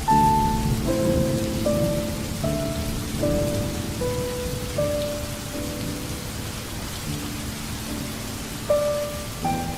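Steady rain with a low rumble of thunder, under a slow, soft instrumental melody of single notes over low chords, a new note about every second.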